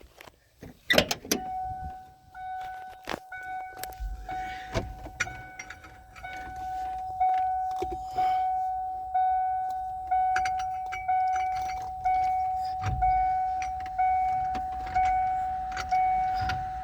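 A Ford truck's cab warning chime dinging steadily about once a second, with a few clicks and knocks of handling near the start.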